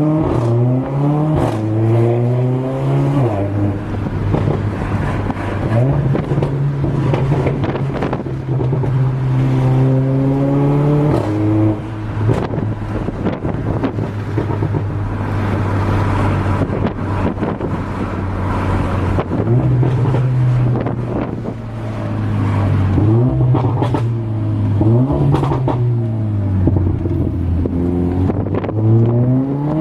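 Mercedes-AMG CLA 45's turbocharged four-cylinder engine with a straight-piped exhaust, pulling hard through the gears: its note rises in pitch at the start, again around ten seconds in and several times in the last few seconds, and holds steady at a cruise in between. Sharp exhaust pops and crackles run throughout.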